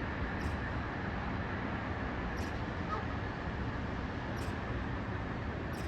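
Steady outdoor traffic noise, a low even rumble of city roads, with a faint tick about every two seconds.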